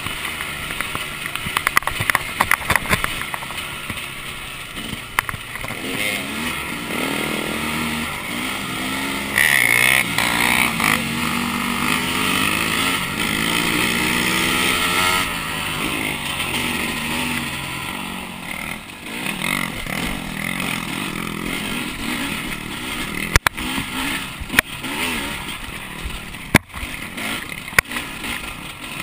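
The two-stroke engine of a 2011 KTM 300 dirt bike, heard from an onboard camera, revving up and down through the gears with wind rushing over the mic. Several sharp knocks come in the last few seconds.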